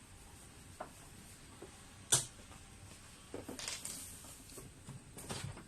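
Scattered handling knocks and clicks on a washing machine's plastic cabinet: one sharp knock about two seconds in, then short clusters of clatter about three and a half seconds in and near the end.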